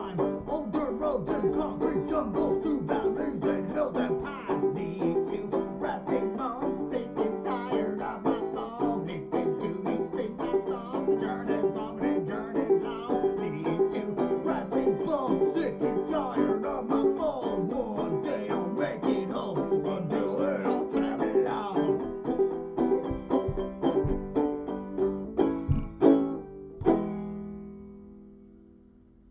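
Acoustic band music with quickly picked plucked strings, ending about 27 seconds in on a final struck chord that rings out and fades away.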